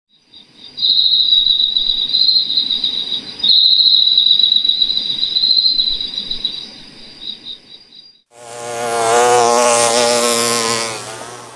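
Insect sounds: a steady high-pitched, slightly warbling insect trill for about eight seconds, then after a brief break a loud, low insect buzz for about three seconds.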